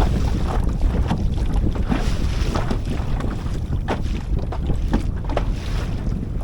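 Wind buffeting the microphone in a heavy low rumble, with irregular short splashes of water slapping against a kayak.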